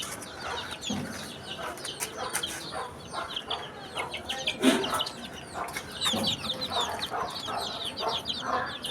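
A group of baby chicks peeping continuously, many short high chirps overlapping, with a few louder, lower calls about five and six seconds in.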